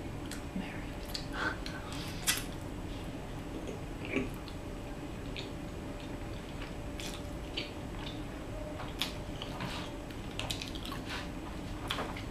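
A person eating fettuccine alfredo: soft, wet chewing and mouth sounds with scattered small clicks, over a steady low room hum.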